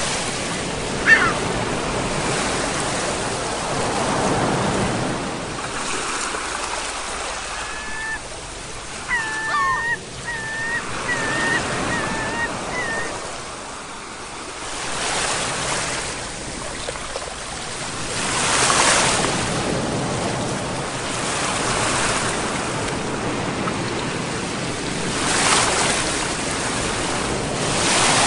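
Sea waves surging and washing back in swells every few seconds. A bird calls once about a second in, then gives a string of short notes about a third of the way through.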